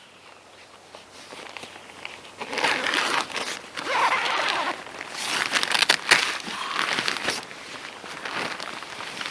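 Crinkly rustling of synthetic fabric being handled and moved, with scattered sharp crackles. It gets louder about two and a half seconds in.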